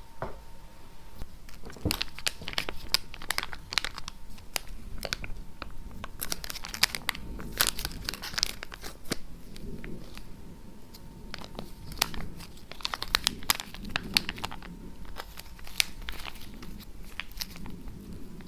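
Close-miked crackling and scratching, irregular clusters of sharp ticks with quieter stretches between.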